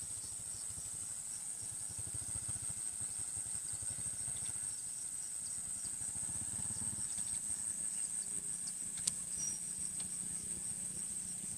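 Small underbone motorcycle engine running at a steady cruise, a low pulsing throb, under a steady high-pitched chorus of insects from the fields. A single sharp click comes near the end.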